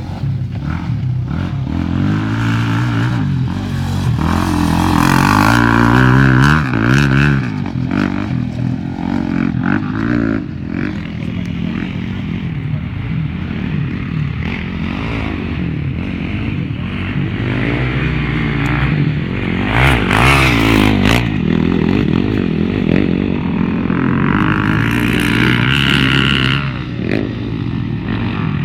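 Off-road motocross motorcycle engines revving and passing close by, the pitch climbing and dropping as riders work the throttle. The sound swells with louder passes around the middle and near the end.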